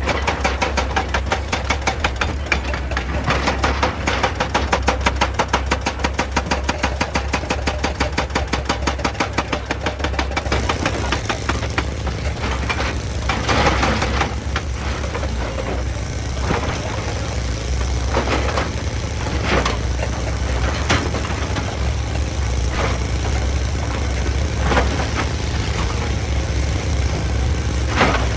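Excavator's engine running under heavy work. For about the first ten seconds there is a rapid, regular pulsing. After that the engine runs steadily, with scattered single knocks and clunks.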